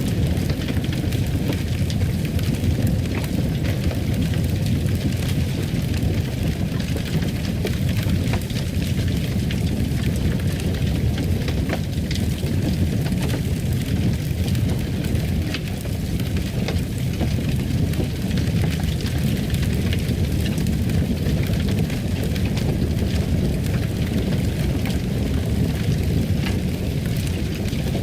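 Wood fire crackling in a fireplace: a steady low rumble of flames with scattered small pops and crackles throughout.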